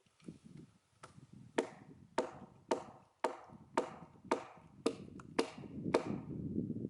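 Steady, evenly spaced blows driving a splitting wedge into an oak log, about ten strikes at roughly two a second, each with a short ring. A lower, rough noise follows near the end.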